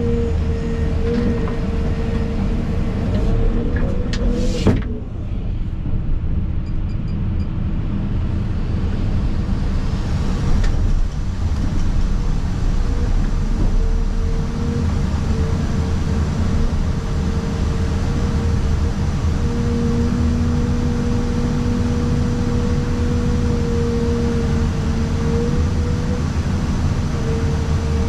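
Excavator's diesel engine and hydraulics running under load, heard from inside the cab: a steady low rumble with a whine that drops out and returns. One sharp knock about five seconds in.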